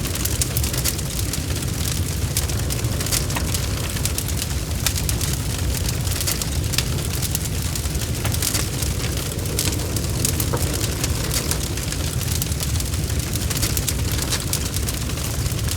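Wood fire burning in a fireplace: a steady low rumble of flames with many quick sharp crackles and pops from the burning logs.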